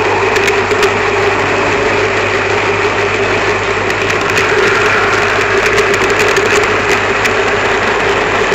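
Small electric motor of an N gauge model train running with a steady whine, with light irregular clicks from the wheels running over the track, heard from on board the train.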